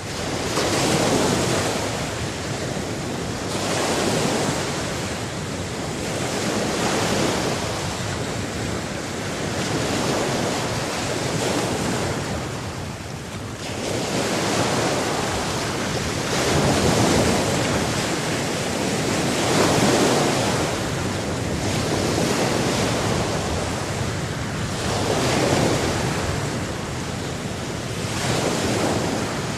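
Sea waves washing onto a shore, a steady rush of surf that swells and falls back every few seconds.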